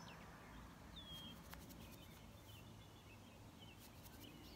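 Near-quiet outdoor ambience with birds calling faintly: a few short whistled chirps, two of them dropping in pitch, about a second in and again near the end.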